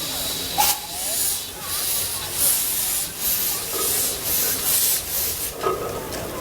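Steam hissing in repeated surges, about two a second, that stop abruptly about five and a half seconds in.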